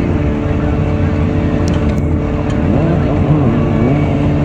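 Vehicle engine running steadily at a constant pitch, wavering slightly in the last second or so.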